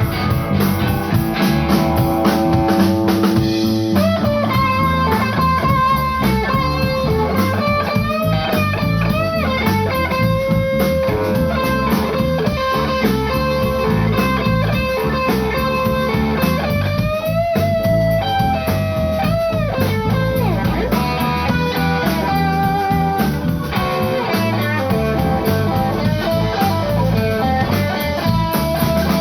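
A live blues band playing: an electric guitar solo with bent notes over drums and bass, after a held chord in the first few seconds.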